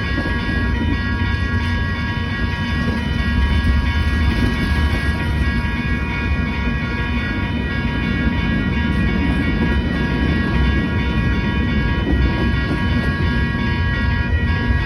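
Freight train rolling past: a steady deep rumble of wheels on rail, with a constant high-pitched ringing tone over it.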